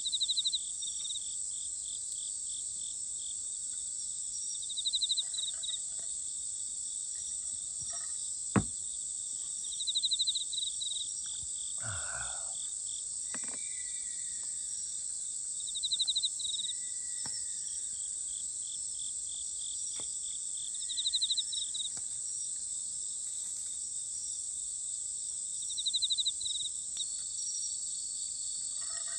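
Night insect chorus: a steady high-pitched trilling, with a louder pulsed chirp that comes back about every five seconds. A single sharp click sounds about eight and a half seconds in, and a brief rustle follows a few seconds later.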